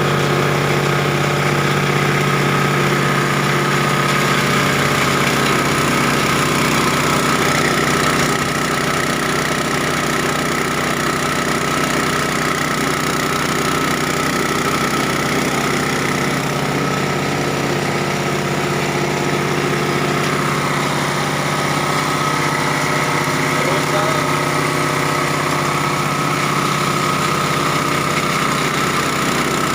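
Multipurpose cassava chopping and grinding machine running steadily with a constant mechanical drone; the level drops a little about eight seconds in.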